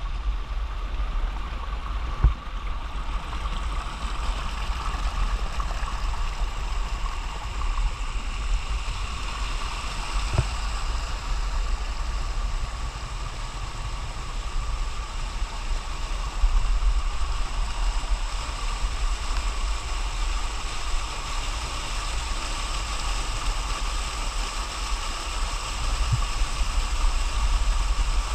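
Spring meltwater stream rushing steadily down a small waterfall, a continuous water roar with a deep rumble underneath. A short knock about two seconds in, and a couple of fainter ones later.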